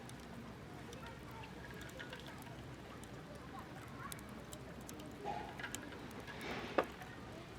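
Wood campfire burning, with scattered small crackles and one sharper pop near the end.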